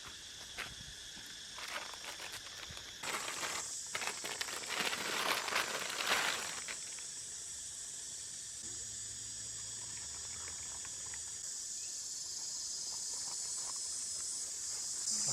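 A steady, high insect chorus, with a few seconds of rustling and scraping with small clicks from about three to seven seconds in.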